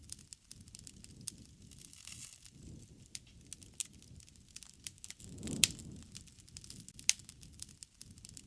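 Campfire of burning wood crackling, with irregular sharp pops over a soft low rush of flame. The loudest pop comes about five and a half seconds in, with a swell of low rushing, and another sharp pop follows about a second and a half later.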